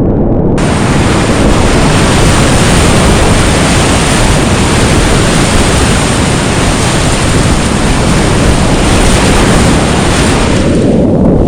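Loud, steady rush of whitewater rapids. The sound is muffled for the first half second and again near the end.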